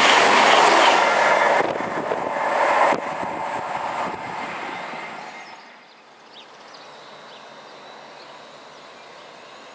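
CrossCountry Voyager diesel train passing at speed close by: a loud rush of wheels and engines that drops sharply about three seconds in as the last coach goes by, then fades away over the next few seconds.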